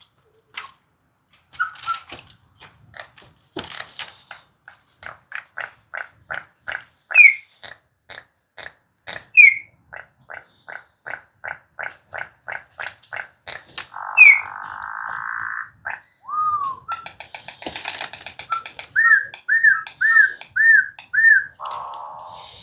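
Currupião (orange-backed troupial) singing a long run of quick clicking notes at about three a second, broken by a few rising whistles. After the middle it gives a harsh rasping note, then five quick up-slurred whistles, and closes with another rasp.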